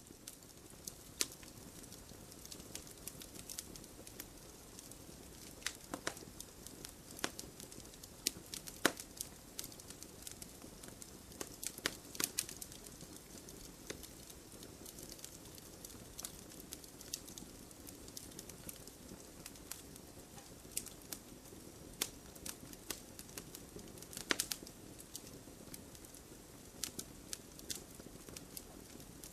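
Wood campfire burning, with irregular sharp crackles and pops over a steady low hiss, a few pops louder than the rest.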